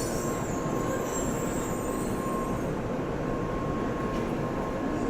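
Shinkansen train noise at a station platform: a steady, even rumble with a faint high tone held throughout.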